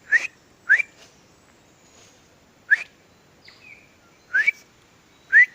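Five short, loud, upward-sliding whistled notes at uneven intervals: a person whistling an imitation of a bird call to draw a bird in. Fainter bird chirps sound in the background.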